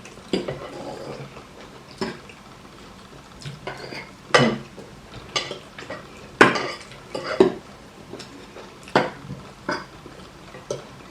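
Cutlery clinking and scraping against plates during fast eating. The sharp clicks come irregularly, a second or two apart.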